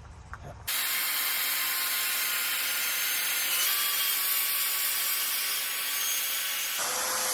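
A power tool working metal: a loud, steady, hissing grinding noise that starts abruptly about a second in, with a change in its character near the end.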